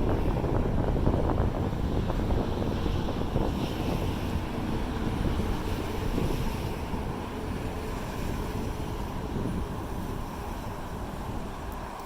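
Wind buffeting the microphone, a rough low rumble that slowly eases off.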